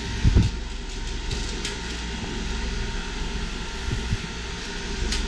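Mabru MPS 05DC 12 V DC water-cooled heat pump running with a steady hum and its blower fan going. A short low thump comes about a third of a second in, with a few light clicks later.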